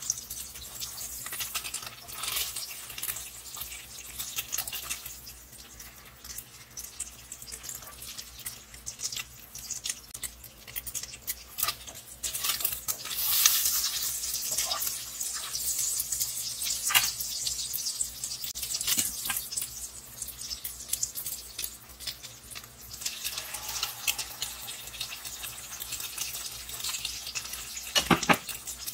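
Egg foo young omelette sizzling in hot oil in a nonstick wok, with the plastic spatula scraping and tapping against the pan. The sizzle grows louder about halfway through as the patty is turned over, and there is one sharp knock near the end.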